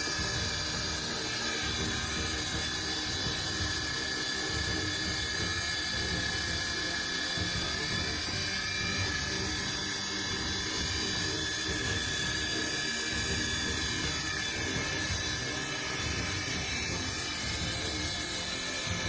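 Heavy machinery running steadily, with held mechanical whines over a fast low rattle.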